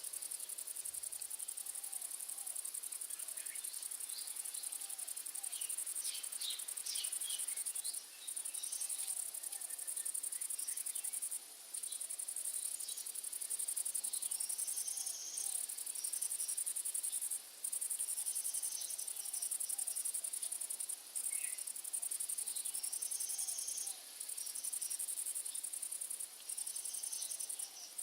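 Insects chirring: a steady, high, fast-pulsing song that breaks off briefly every few seconds. Short bird chirps are scattered through it.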